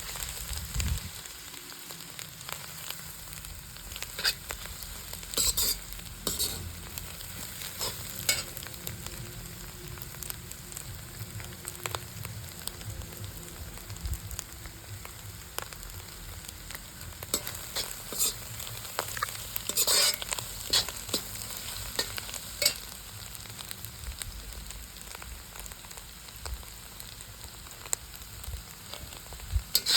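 Food frying in a pan with a steady sizzle, stirred with a spatula that scrapes and clicks against the pan now and then, louder a few times.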